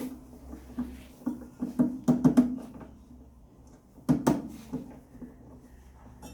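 Irregular knocks and clatters of parts and tools being handled while a top-loading washing machine is worked on, with a cluster of quick knocks about two seconds in and two louder ones about four seconds in.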